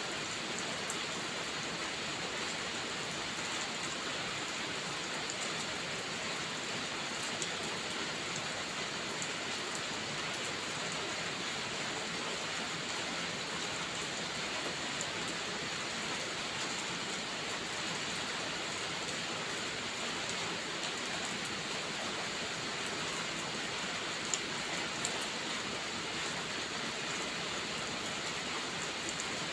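Steady heavy rain hissing without a break, with scattered sharp crackles and pops from a wood fire, two louder pops near the end.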